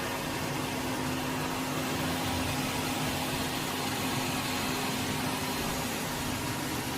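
eufy E25 robot vacuum-mop running, a steady whirring of its suction motor and roller mop with a low hum that fades out near the end.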